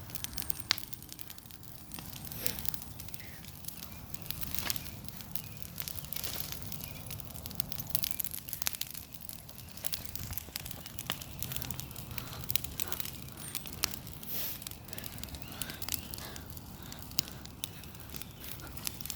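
Big bonfire of dry tree branches burning, with irregular sharp crackles and pops over a low, steady rush of flame.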